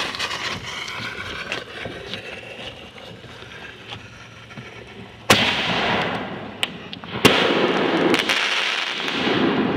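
Consumer aerial artillery shell fireworks: a shell launches from its mortar tube with a hiss at the start, then two sharp bursts come about five and seven seconds in, each trailing off slowly over a second or two.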